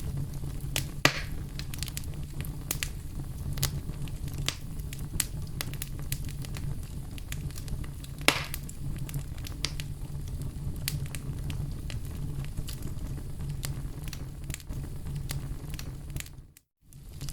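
Campfire crackling and popping over a steady low rumble, with two louder pops about one second in and around eight seconds. The sound briefly cuts out to near silence just before the end.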